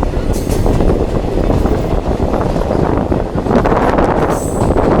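Diesel multiple unit train running, heard from aboard: a steady loud rumble with rattling clatter of the carriage. A brief high-pitched squeal comes about four seconds in.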